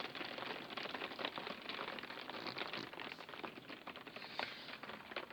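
Heavy rain pattering, a dense, irregular crackle of drops striking surfaces, with a few louder single drops standing out.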